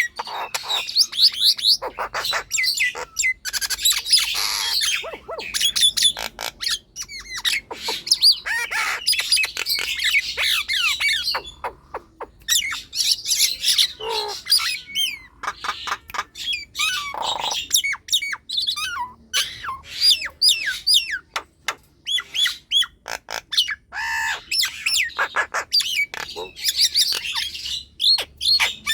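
Nias hill myna calling loudly and without let-up: harsh squawks, whistled rising and falling notes and rapid clicking rattles, broken by a couple of short lulls.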